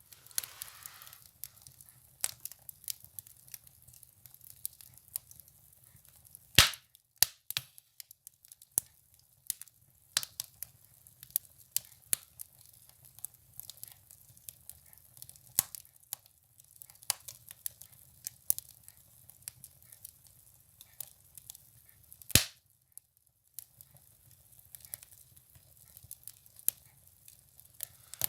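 Firewood burning in a wood stove, crackling with irregular sharp pops. Two pops stand out as much louder, one about a quarter of the way in and one about three quarters in, over a faint low hum.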